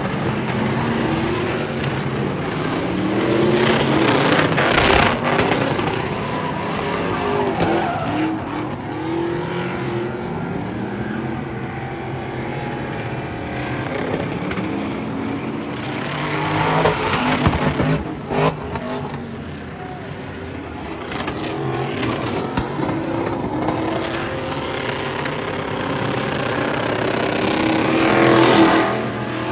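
Truck engine revving hard, its pitch climbing and falling again and again as it is driven in stunts, with some tyre squeal.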